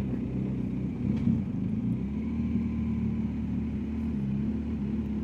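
BMW R1250 GS Adventure's boxer-twin engine running while riding at road speed, with road and wind noise. The engine note shifts about a second in, then holds steady.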